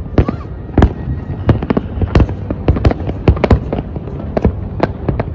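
Aerial fireworks display: an irregular volley of sharp bangs, about three or four a second, over a continuous low rumble.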